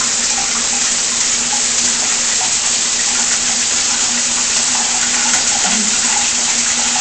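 Shower head spraying water steadily, an even hiss of running water with a faint steady hum underneath.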